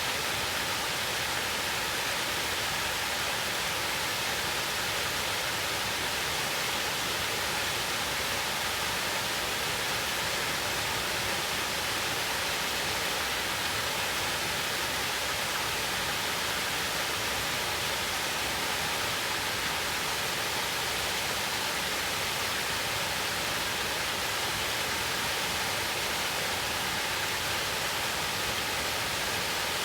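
Rushing water of a mountain stream, a steady even rush that does not change.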